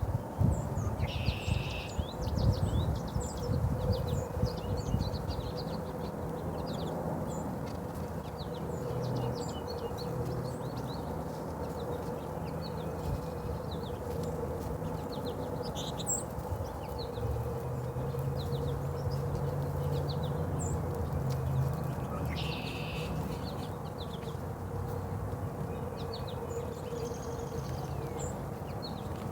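Small birds chirping over and over in short high notes, with a few longer buzzy calls about a second in, past twenty seconds and at the very end. A low steady hum runs underneath, and a few knocks sound in the first few seconds.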